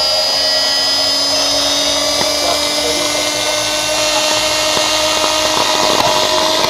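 Bosch washing machine motor running steadily on test, a continuous electric whine with several fixed tones over a rushing hiss.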